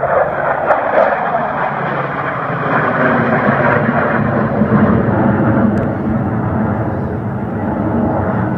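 Jet aircraft flying past, its loud rushing engine noise building to a peak about three to five seconds in and then easing slightly.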